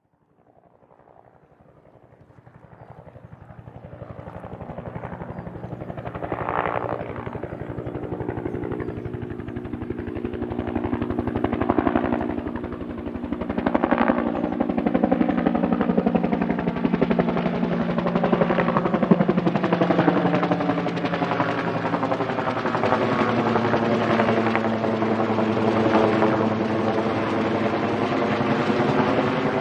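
Helicopter approaching: its rapid rotor chop fades in from silence and grows louder over the first six seconds or so, then runs steady and close, with a turbine hum under it.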